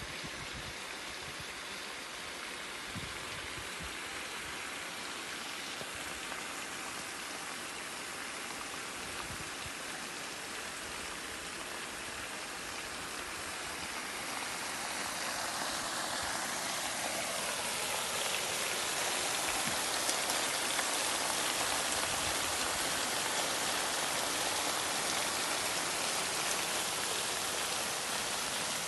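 Treatment-plant wastewater pouring out as a steady stream, a continuous rush of water that grows louder about halfway through.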